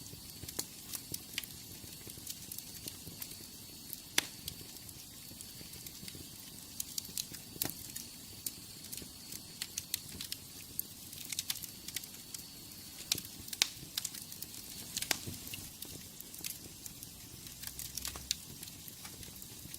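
Wood fire burning in a fireplace, crackling with irregular sharp pops over a steady soft hiss.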